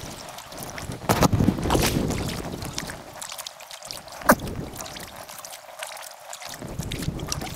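Kayak paddling on a river: paddle strokes splashing in the water, with wind noise on the microphone and a sharp knock about four seconds in.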